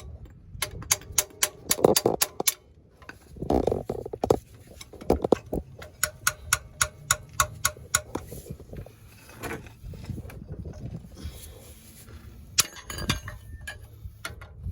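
Metal hand-tool clinks and clanks with runs of sharp clicks, several heavier knocks among them, from work on the car's front suspension and axle.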